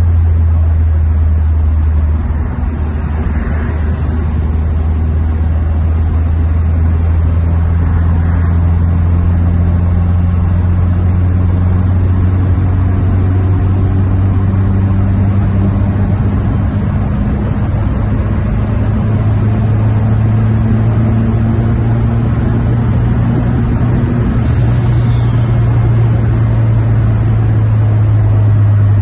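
Turbocharged 1.6 engine of a Volkswagen Parati G3 heard from inside the cabin, a deep steady drone that slowly rises in pitch as the car pulls along the highway. About three-quarters of the way through, a high whistle falls sharply in pitch as the engine note changes, like the turbo spooling down when the throttle is lifted.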